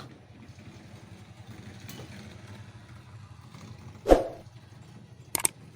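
A steady low hum with one sharp knock about four seconds in, then two quick clicks near the end.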